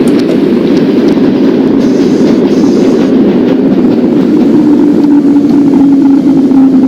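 Subway train running along the track with a loud, steady rumble. A faint humming tone comes in about two-thirds of the way through.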